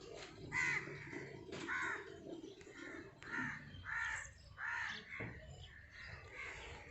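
Crows cawing repeatedly, a run of harsh calls spaced about half a second to a second apart.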